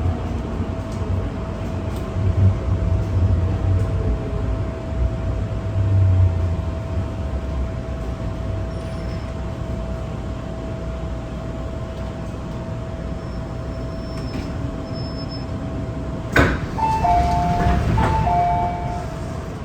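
Cabin sound of an MTR M-Train metro car: a low rumble with a steady electrical hum. About 16 seconds in there is a sharp clack, followed by a two-note electronic door chime sounding twice.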